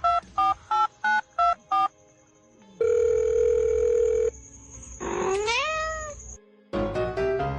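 A quick run of short electronic beeps at shifting pitches, about three a second, then a long steady electronic tone. A cat meows once, the pitch rising and then falling, and piano music starts near the end.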